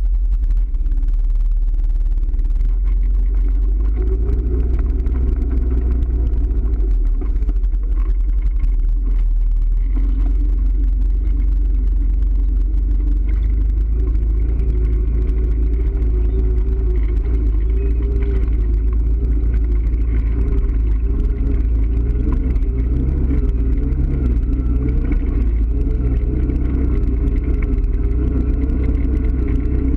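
A motor vehicle's engine running steadily while riding, a deep continuous rumble with its pitch wavering slightly.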